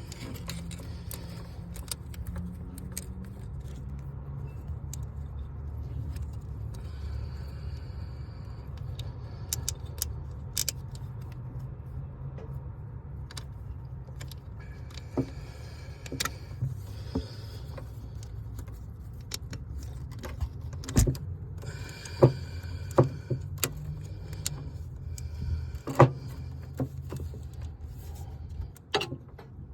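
Metal clinks and knocks from hand tools and parts while a replacement starter motor is fitted into a Bobcat MT100 mini track loader. The knocks are scattered and sharpest in the second half, over a steady low hum.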